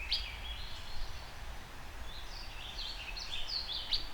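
Small birds chirping outdoors, with many short, quick notes scattered throughout and a steady low rumble underneath.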